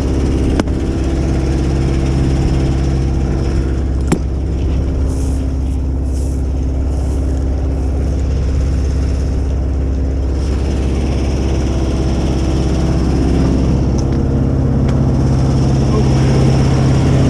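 An engine running steadily with a low drone that shifts slightly in pitch about two-thirds of the way through, and two sharp clicks in the first few seconds.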